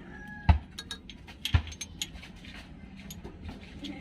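Heavy, dull thumps about a second apart, twice, with light sharp clicks and taps between them.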